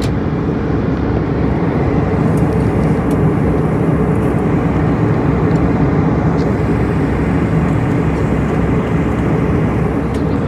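Steady, loud drone of an airliner in flight heard from inside the cabin: engine and air rush, deep and even, with no change in pitch.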